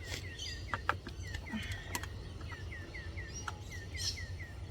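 A bird calling in a steady run of short falling chirps, about four or five a second, over a low steady background rumble. A few sharp clicks from hands working the plastic pot and its nut and bolt.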